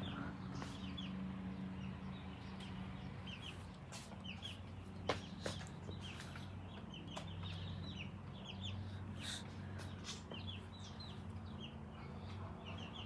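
Backyard chickens clucking, with many short high chirps scattered throughout over a steady low hum. A few sharp clicks stand out.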